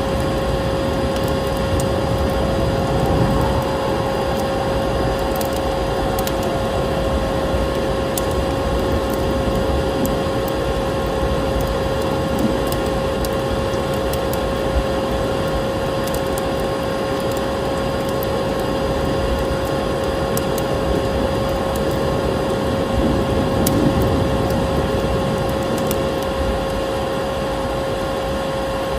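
Vacuum cleaner running steadily with a constant hum, mixed with a wood fire crackling in scattered small snaps.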